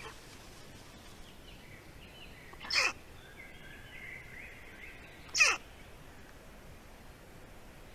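A bird calling: two short, harsh calls about two and a half seconds apart, each dropping in pitch, with faint whistled birdsong between them.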